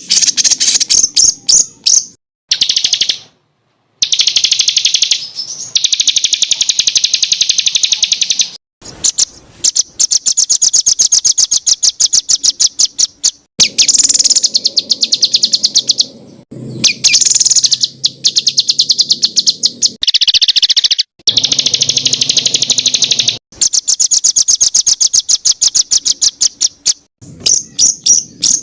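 Songbird singing dense, rapid trills of fast-repeated high notes, the 'tembakan' (shooting) phrases used as masteran song for training caged songbirds. The song is broken by several abrupt gaps of silence.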